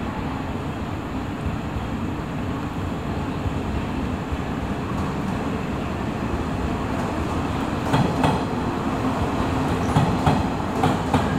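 JR West 381 series electric train running toward the listener, a steady rumble that slowly grows louder. From about eight seconds in, its wheels clack several times over the track.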